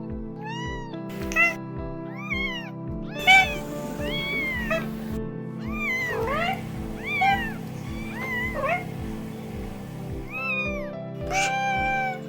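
Cats meowing again and again, a quick run of short meows that rise and fall in pitch, with one longer, held meow near the end. Background music with a steady beat plays underneath.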